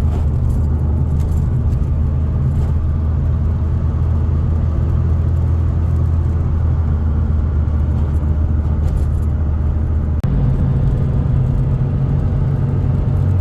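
A turbocharged Hyundai Getz cruising on the highway, its engine and road noise a steady low drone inside the cabin. About ten seconds in there is a brief click and dip, after which the engine note steps up to a higher pitch.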